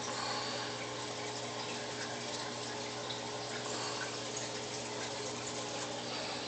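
Aquarium filter running: a steady trickle and splash of water with a low, steady hum underneath.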